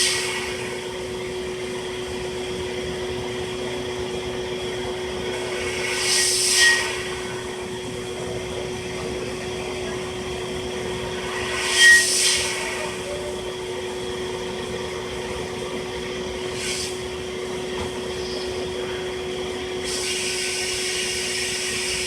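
Small electric eyeglass-and-jewelry cleaning machine running with a steady motor hum, broken by a short hiss about every six seconds and a longer hiss near the end.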